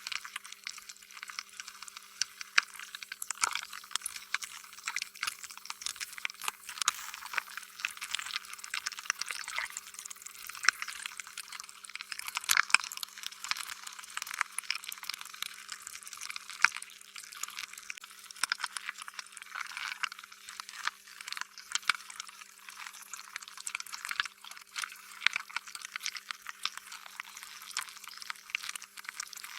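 Slime being squished and stretched: a continuous stream of wet, sticky clicks and pops with no steady rhythm. A faint steady hum lies underneath.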